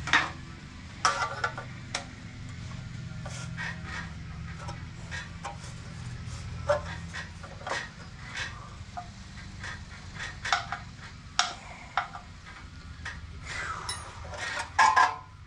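Hand tools and metal parts of a go-kart clinking, knocking and rubbing as a throttle cable is worked into place, with a sharp clank every second or so and a few brief metallic rings, over a steady low hum.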